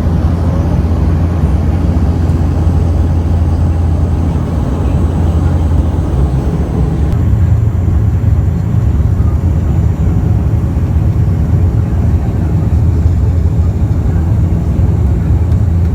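Steady loud drone of a Bombardier Q400's turboprop engines and propellers heard inside the passenger cabin, with a strong low hum. About halfway through, the higher part of the noise drops abruptly.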